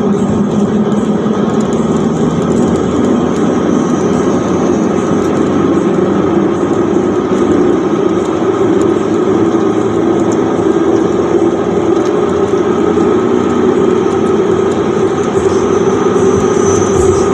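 Steady running noise from a moving Mitsubishi Triton pickup, with a continuous hum from the tyre and wheel: the strange tyre noise that the owner is trying to track down.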